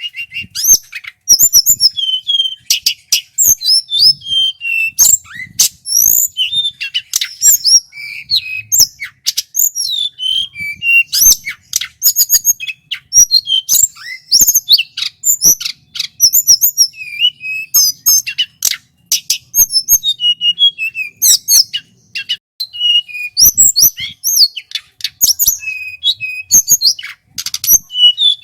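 Male hill blue flycatcher (tledekan gunung) singing continuously: a rapid, varied run of clear whistled notes and quick up-and-down glides, with sharp clicking notes mixed in and only brief pauses.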